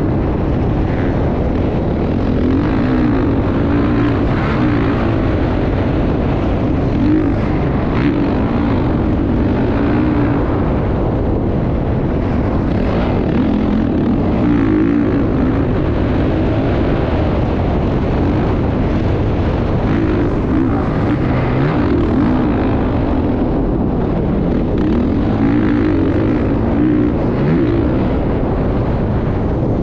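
Motocross dirt bike engine running hard, its pitch rising and falling as the throttle is worked, with a noisy rush of wind or tyres underneath.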